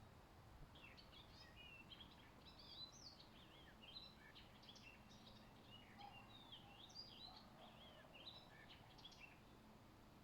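Faint birdsong: a songbird sings a long, varied run of quick high notes that slide up and down. It starts about a second in and stops shortly before the end, over a low, steady background hiss.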